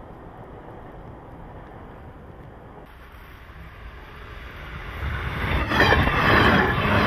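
Electric train approaching and passing close at speed, its running noise building from about four seconds in to loud as it goes by, with a falling pitch as it passes.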